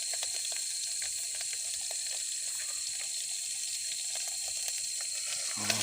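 Spice paste and fish frying in butter in a cooking pot: a steady sizzling hiss with a few small crackles, over a steady high tone.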